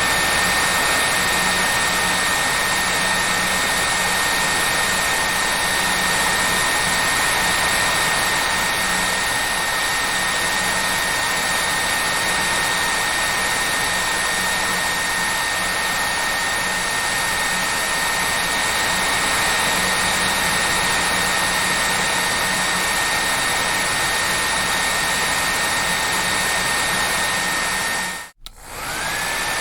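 Hair dryer running steadily, a constant rushing blow with a high motor whine. Near the end it cuts out for a moment and comes back, the whine rising as the motor spins up again.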